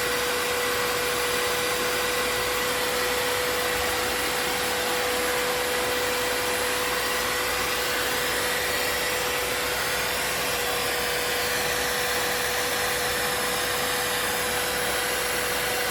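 Vacuum cleaner motor running steadily with a constant whine, used to suck up hornets.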